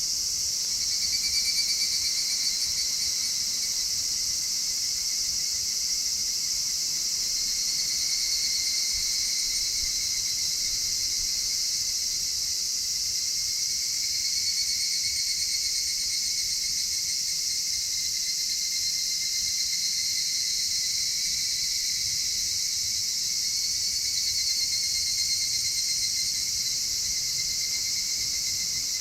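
A dense chorus of insects keeps up a steady high-pitched shrilling, while another insect's higher, pitched trill starts and stops in phrases every few seconds.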